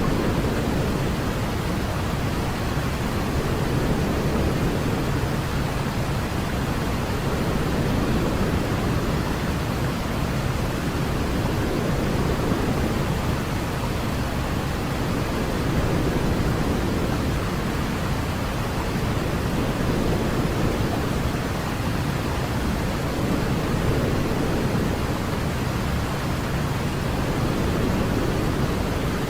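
Steady, deep rushing noise from a baby-sleep white-noise track, weighted towards the low end, with gentle swells about every four seconds.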